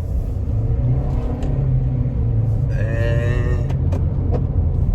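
Car driving, heard from inside the cabin: a steady low road and engine rumble, with a brief higher pitched tone about three seconds in.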